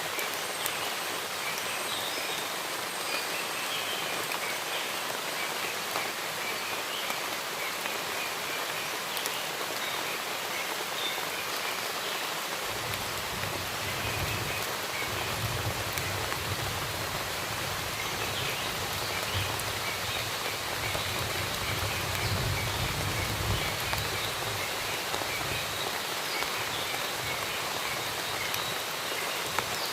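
Steady rain, with small birds chirping faintly through it. A low rumble comes in about 13 seconds in and dies away a few seconds before the end.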